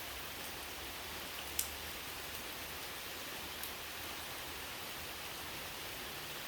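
Steady rain falling, with a few separate drops ticking sharply, the loudest about a second and a half in.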